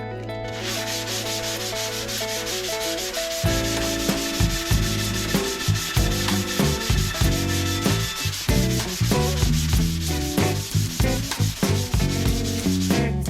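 Sanding of cured body filler on car body panels: a steady abrasive rubbing that starts about half a second in and stops abruptly near the end, with background music under it.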